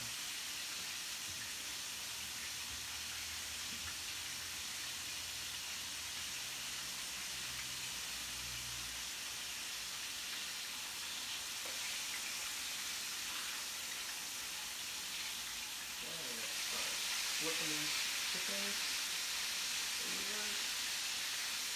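Chicken frying in olive oil and butter in an electric skillet: a steady sizzle that grows louder about sixteen seconds in.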